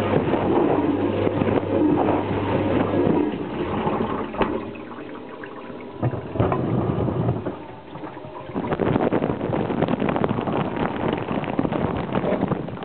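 Water splashing and gurgling inside the tub of an Indesit DSG 263EU dishwasher. A steady pump hum runs at first and stops about three seconds in; the water noise dies down, then picks up strongly again about eight and a half seconds in.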